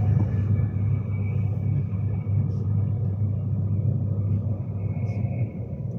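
Steady low rumble of a Class 390 Pendolino electric train running along the line, heard from inside the carriage.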